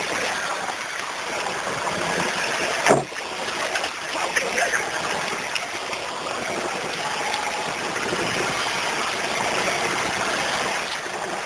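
Off-road vehicle moving along a rough track, a steady rushing noise with one sharp knock about three seconds in.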